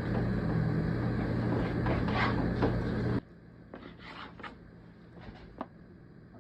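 Soft handling sounds as raw boneless chicken breasts are pulled apart and moved about, over a steady background hum that cuts off suddenly about three seconds in, leaving a few faint taps.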